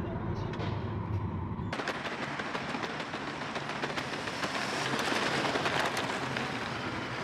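Food sizzling and crackling in a hot pan. It starts abruptly about two seconds in, taking over from a low hum.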